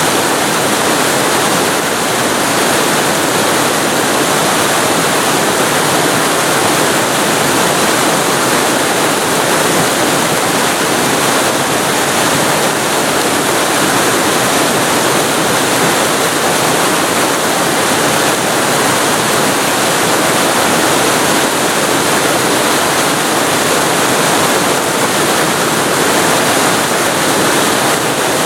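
Waterfall recorded very close to the falling water: a loud, steady rushing of water.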